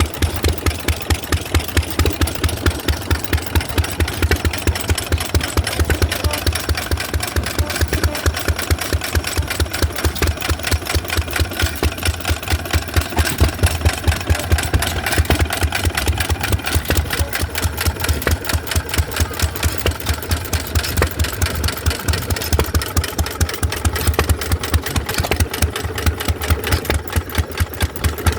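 Hit-and-miss stationary gas engines running, with regular exhaust beats over a steady low mechanical drone.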